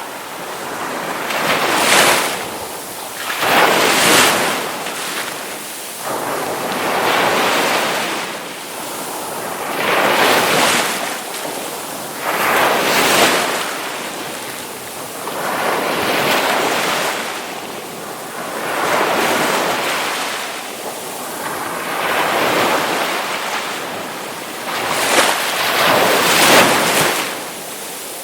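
Ocean waves breaking on a shore, the surf rising and falling in repeated surges every two to three seconds.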